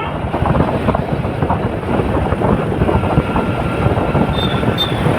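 Running noise of a moving vehicle: a steady rumble with continual rattling and clatter, and a faint steady whine joining about three seconds in.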